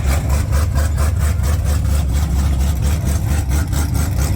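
Car engine idling nearby with a steady, rhythmic pulse.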